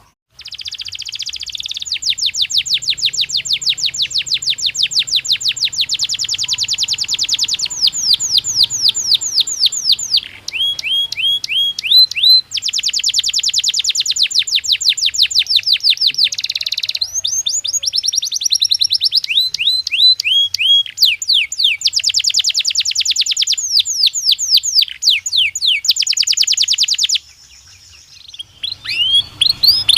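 Domestic canary singing a long song of fast rolling trills, each a rapid run of repeated notes, with a few slower rising whistled notes between them and a couple of brief pauses.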